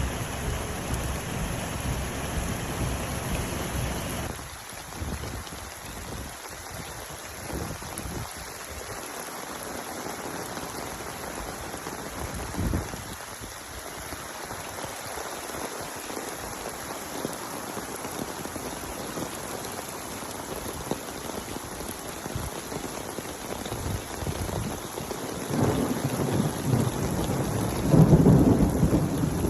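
Steady rain falling. A short low rumble comes about halfway through, and a longer, louder low rumble of thunder builds over the last few seconds.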